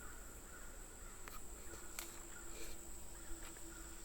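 Faint outdoor ambience: a steady, high-pitched insect drone, with a few soft clicks.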